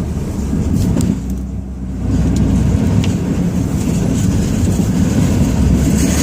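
Ram 2500's Cummins turbo-diesel running under load while pushing snow, a heavy low rumble heard from inside the cab that grows louder about two seconds in, with a few light knocks.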